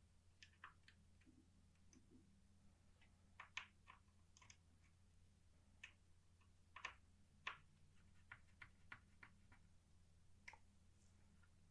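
Faint, irregularly spaced light clicks and taps of small parts being handled, over a low steady hum.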